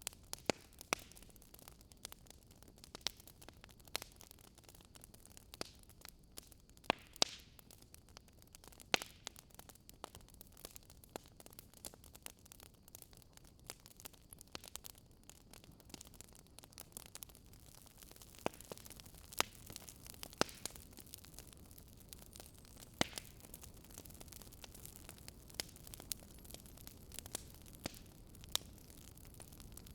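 Wood fire crackling: irregular sharp pops and snaps, a few louder than the rest, over a faint low hiss.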